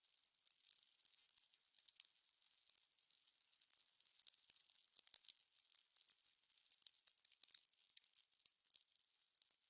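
Fire crackling: a soft hiss with irregular sharp pops and snaps scattered throughout.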